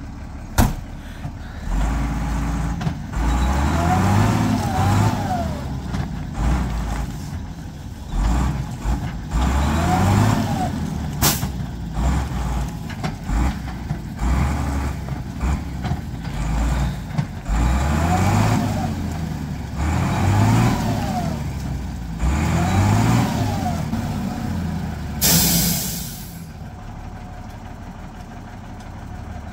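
Vehicle engine revved up and down again and again, its pitch rising and falling in repeated surges. A short loud hiss comes about three-quarters of the way through, and the engine is quieter after it.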